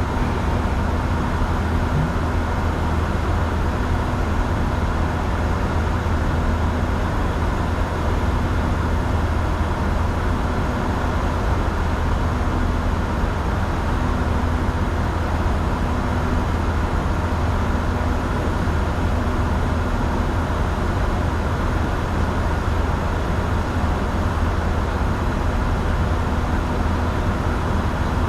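Steady in-flight cockpit noise of a Bombardier Challenger 605 business jet: a constant rush of airflow over a low drone from its turbofan engines, with faint steady tones.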